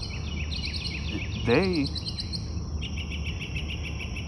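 Songbirds chirping and trilling in quick repeated notes over a steady low background hum, with one short, pitched call that slides up and down about a second and a half in.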